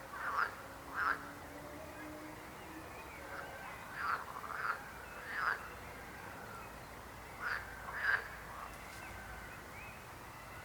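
Frogs croaking: short calls come in clusters of two or three, a few seconds apart.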